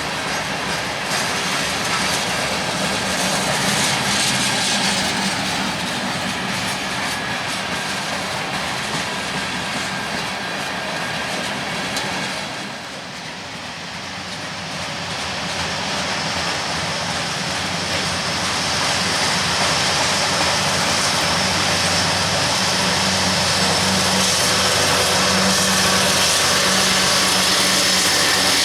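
Freight train rolling past, its cars clattering over the rails. In the second half a steady low diesel hum comes in and grows louder.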